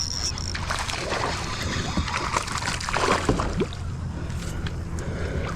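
Water sloshing and splashing around a kayak as a hooked largemouth bass is fought in close to the hull, with a few small knocks.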